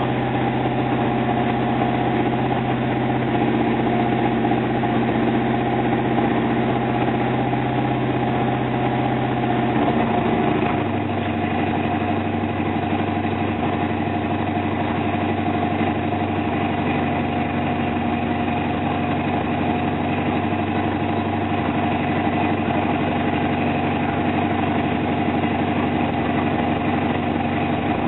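Oldsmobile 350 V8 with a newly installed Comp Cams XE268 flat-tappet camshaft running at a steady raised speed during cam break-in. About ten seconds in the engine speed drops and it settles into a steady, lower idle.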